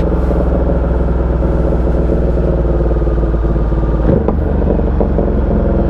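Ducati Diavel 1260's V-twin engine running steadily under way, heard from the rider's helmet, with a strong low rumble. About four seconds in there is a brief rise in pitch.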